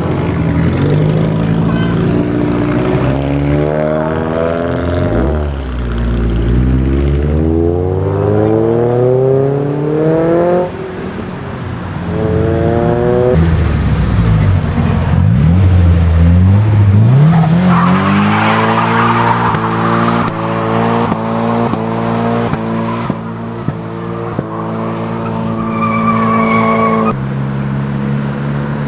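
Modified Nissan Silvia engines revving up and down hard through the gears, with a stretch of tyre noise partway through. The engine sound changes abruptly a few times, as if cut between several cars.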